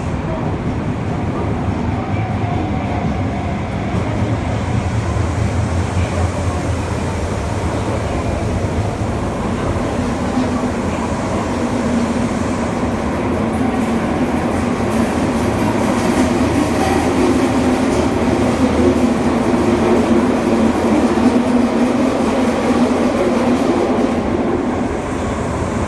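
Running sound heard inside an Osaka Metro 80 series linear-motor subway car: steady tunnel rumble and wheel-on-rail noise, with the Hitachi IGBT inverter's motor tones running through it. It grows a little louder through the middle and eases near the end.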